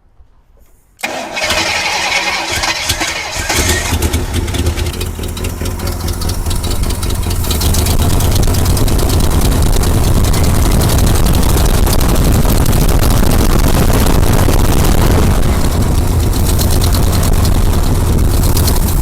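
AMC 401 V8 in a 1976 Jeep J10 cranked by the starter and catching about a second in, then running rough and loud on fuel poured down the carburetor. It begins to die away at the very end as the fuel runs out, because the fuel pump is not drawing fuel.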